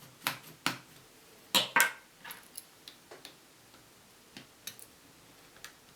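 Small sharp plastic clicks and taps, about a dozen spread unevenly, loudest in the first two seconds, from a Nintendo DS Lite's battery cover being worked off its plastic case by hand.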